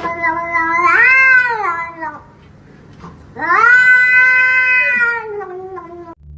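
A domestic cat yowling: two long drawn-out calls, the first rising in pitch about a second in, the second starting about three and a half seconds in.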